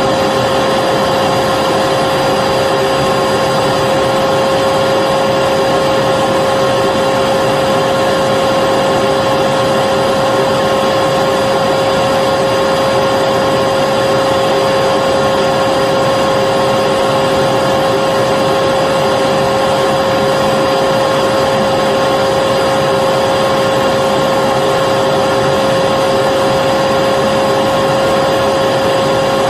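Vacuum cleaner running steadily: a constant loud rushing hum with a steady mid-pitched whine on top, never changing in speed or level.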